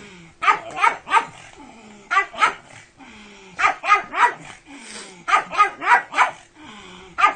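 Pug barking over and over in quick bursts of two to five short, high barks with brief pauses between.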